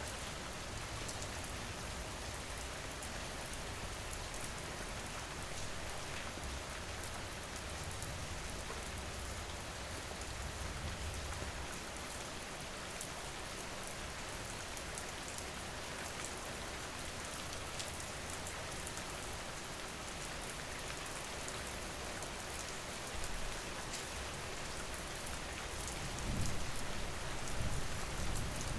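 Steady rain falling: an even hiss with fine scattered drop ticks. A low rumble swells briefly a few seconds before the end.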